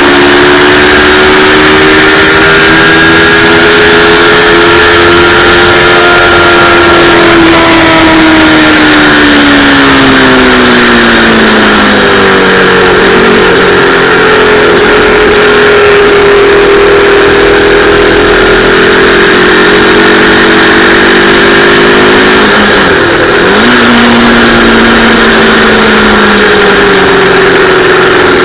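Yamaha R3's 321 cc parallel-twin engine running hard at high revs under load. The revs fall away over a few seconds about a third of the way in, then hold steady, with a quick dip and recovery, as at a gear change, a few seconds before the end.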